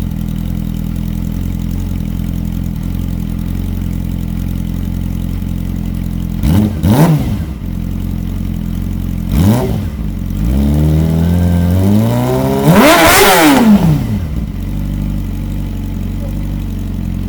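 Yamaha R6 inline-four engine idling through a GYTR slip-on exhaust with the catalytic converter removed. A quick throttle blip comes about six and a half seconds in and another near nine and a half, then a longer rev climbs, peaks sharply and drops back to a steady idle.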